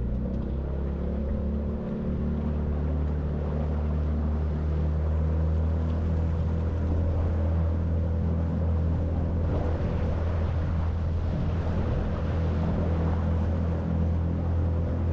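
Boat's outboard motor running at a steady speed under way, with wind and water noise.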